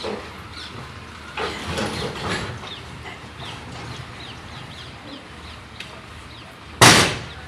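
Small birds chirping, short falling chirps again and again, over a low steady rumble. A single short, loud thump comes near the end.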